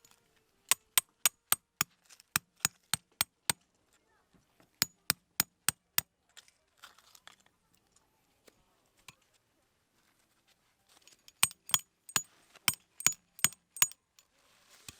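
Sharp metallic strikes in three runs of quick, even blows, about three a second, each with a brief high clinking ring.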